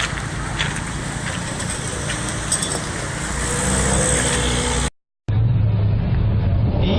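Road vehicle noise: a steady rush with a few clicks that grows a little louder, then cuts off suddenly for a moment about five seconds in. After the break comes a steady low engine hum.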